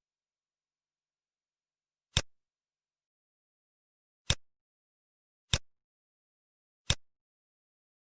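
Four sharp single clicks, irregularly spaced, against dead silence: the click sound of answers being selected in an on-screen matching exercise.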